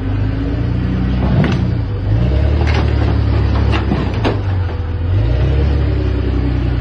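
A motor vehicle's engine running with a deep rumble, its pitch stepping to a new steady level twice. A few sharp pops or clicks sound over it in the middle.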